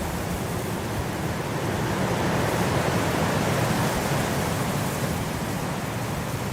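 Blizzard wind blowing steadily, swelling into a stronger gust around the middle and easing off again.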